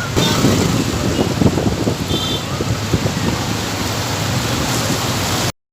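Heavy rain pouring, with wind noise on the microphone; it cuts off abruptly near the end.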